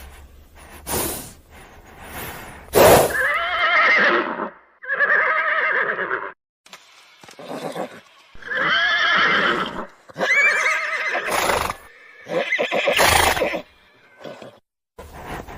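An animal calling repeatedly: about five loud, pitched calls of roughly a second each, with arching, wavering pitch, and several sharp knocks in between.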